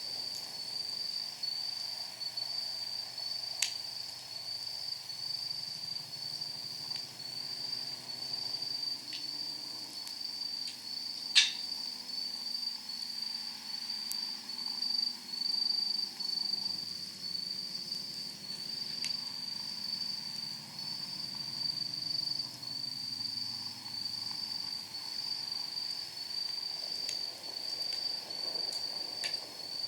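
Wood fire in a steel fire pit burning with a soft rumble and occasional sharp crackling pops, the loudest about eleven seconds in. Over it runs the steady, evenly pulsing high chirp of an insect calling in the night.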